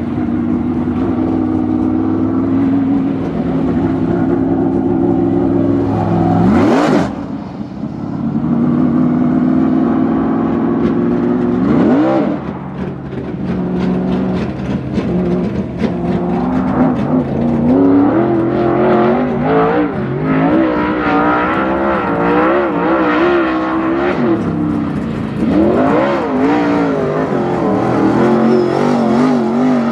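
Super late model dirt race car's engine running laps, dropping off and then revving sharply back up about 7 and 12 seconds in, its pitch rising and falling through the later part.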